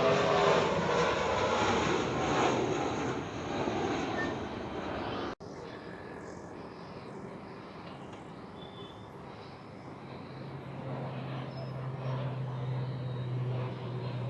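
Aircraft engine noise: a loud, even rush for about five seconds, then a sudden cut to a quieter rumble. A low steady hum joins about ten seconds in.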